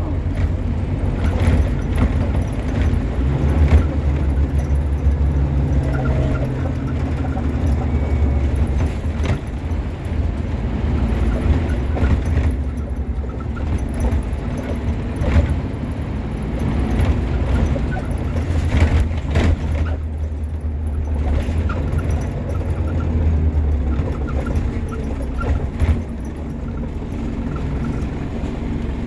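Scania N230UB OmniCity bus's five-cylinder diesel engine running under way, heard from inside the bus, with its pitch rising and falling as it pulls. Short clicks and rattles from the bus body come through at intervals.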